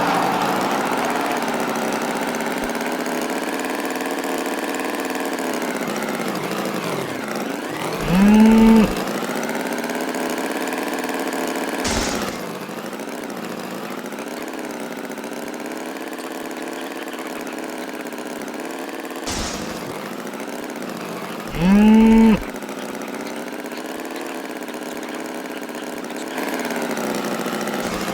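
Tractor engine running steadily, its pitch drifting up and down, with two loud, short bull moos about fourteen seconds apart and a couple of sharp clicks between them.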